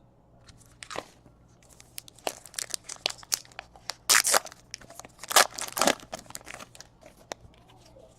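Foil trading-card pack wrapper being torn open and crinkled, a run of sharp crackling and tearing noises strongest in the middle.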